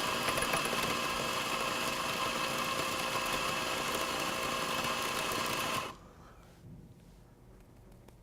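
Eureka Atom electric coffee grinder running steadily as it grinds a timed dose of espresso beans, cutting off suddenly about six seconds in. A few faint ticks follow.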